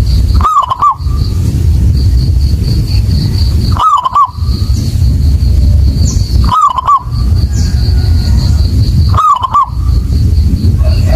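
Zebra dove (perkutut) cooing: a short phrase four times, about every three seconds, over a loud low rumble and a thin steady high-pitched whine.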